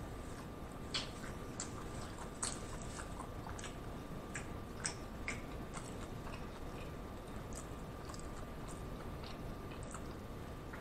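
A person chewing a mouthful of taco close to the microphone: soft, scattered mouth clicks and smacks, a few a second, thinning out in the second half. A faint steady thin tone sits underneath.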